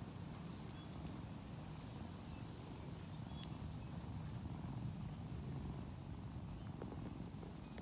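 A low, steady rumble with a fine flutter, with a few faint short high tones over it.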